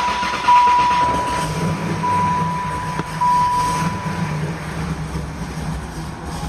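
LT4 V8 running on E85 fuel just after a cold start, idling steadily. A car's steady electronic warning chime sounds over it and stops about four seconds in.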